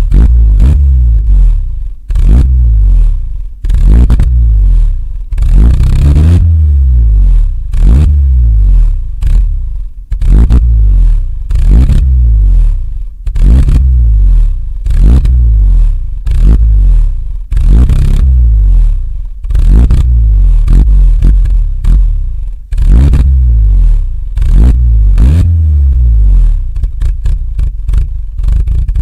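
Engine exhaust of a freshly cold-started vehicle, revved up slowly and let fall back over and over, about once every two seconds. It is loud throughout.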